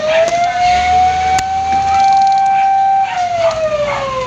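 Fire truck siren wailing: its pitch rises, holds steady for about two seconds, then falls near the end, with a second siren's falling wail overlapping it.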